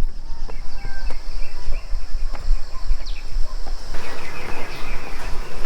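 Rural outdoor ambience: a steady high insect drone with a few bird chirps, over a low rumble. A broader hiss comes in about four seconds in.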